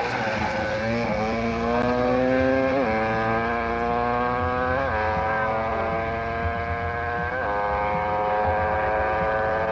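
A competition car's engine accelerating hard through the gears, its pitch climbing steadily and dropping sharply at each upshift, three times.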